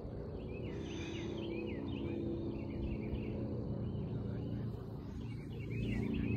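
Outdoor ambience: a steady low hum, with a small bird chirping in quick runs of short notes, once early on and again near the end.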